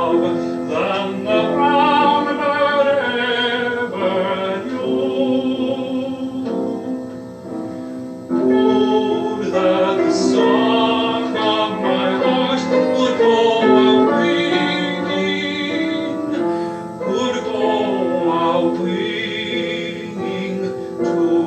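A man singing a slow ballad in a classical style with strong vibrato, accompanied by piano, with a short pause between phrases about seven seconds in.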